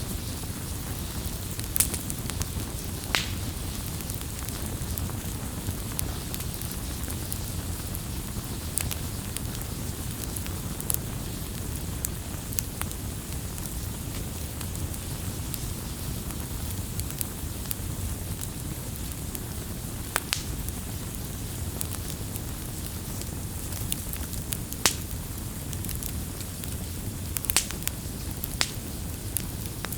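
Wood campfire crackling: a steady low rumble of the flames with irregular sharp pops and snaps of burning wood.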